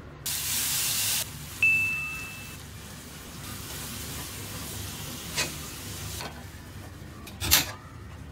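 Ground chili spice paste with lemongrass and lime leaves sizzling in a nonstick frying pan as a spatula stirs it. At the start a short hissing whoosh and a single high ding, and two sharp clicks later on, the second near the end.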